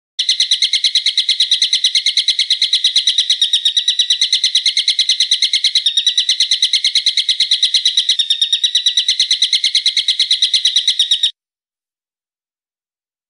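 A bird's shrill call repeated in a fast, even, unbroken train of notes, several a second, cutting off suddenly near the end.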